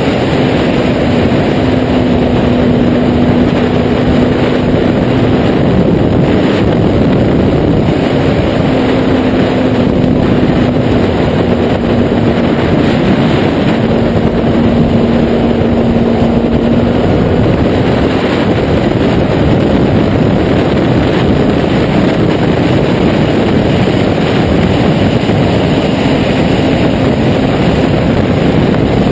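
Kawasaki Z800 inline-four motorcycle with a Taylor Made Firetong aftermarket exhaust, running continuously at fairly steady revs, with a dense rushing noise throughout. An even engine tone holds for stretches of a few seconds, in the first few seconds and again through the middle.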